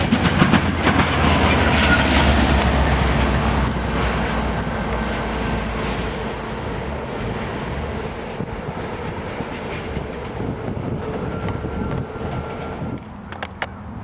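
GO Transit bilevel commuter train running past: a deep rumble with the clickety-clack of wheels over the rail joints, slowly fading, and a faint high whine gliding down in pitch. The sound drops off suddenly near the end.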